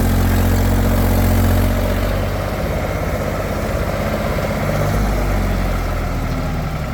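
Heavy diesel machinery engine running steadily. It is louder for the first two seconds or so, then eases to a lower, idle-like note.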